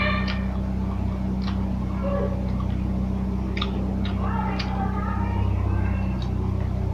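Someone chewing and eating, with scattered small clicks and smacks over a steady low hum. A faint pitched sound, like a distant voice, comes right at the start and again about four to five seconds in.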